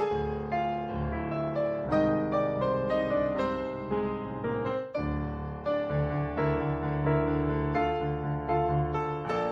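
Background piano music: a run of quick notes over a held low bass.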